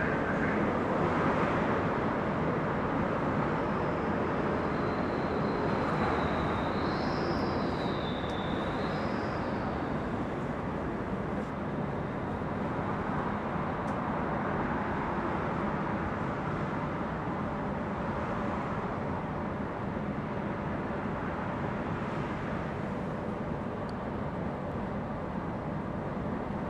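Steady running noise of a stopped Semboku Rapid Railway electric train waiting at a platform, its onboard equipment running. A wavering high whistle-like tone comes and goes between about three and ten seconds in.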